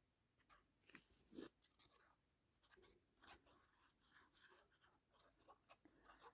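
Near silence with faint, scattered paper rustles and light taps: paper and card pieces being handled and pressed down while they are glued.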